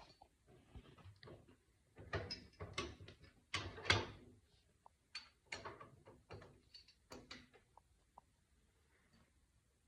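Irregular metal clanks, knocks and scrapes of a telescopic stabilizer link and its pins being handled and fitted onto a compact tractor's three-point hitch. The loudest knocks come about two to four seconds in, and the sounds die away near the end.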